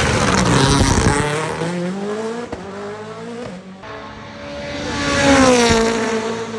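Rally car engine at full speed: the engine note falls and fades as one pass goes by, then a rally car approaches, its engine rising to its loudest about five and a half seconds in and dropping in pitch as it passes.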